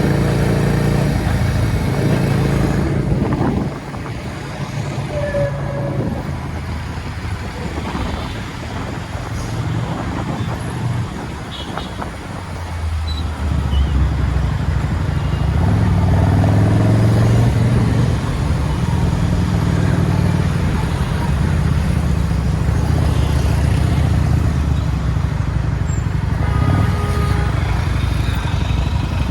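Motorcycle engine running on the road, its note dropping about four seconds in and rising again as it speeds up about halfway through.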